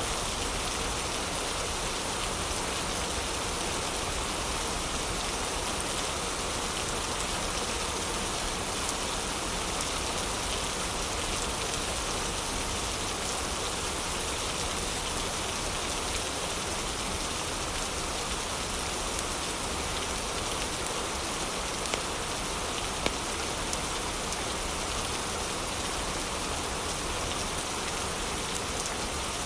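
Steady heavy rain, with a few sharp fireplace crackles standing out in the second half.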